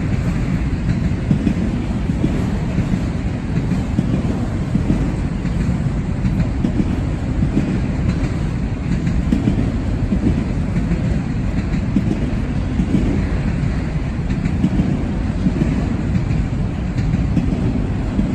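Train rolling past on the rails, a steady low rumble of wheels and cars.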